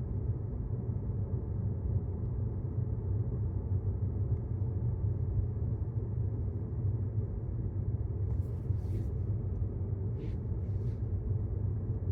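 Steady low road and tyre rumble inside the cabin of a moving Tesla Model S, an electric car with no engine note. A few brief high hisses come near the end.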